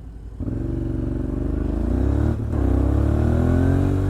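Motorcycle engine accelerating: its pitch climbs, drops for a gear change about two and a half seconds in, then climbs again before easing off near the end.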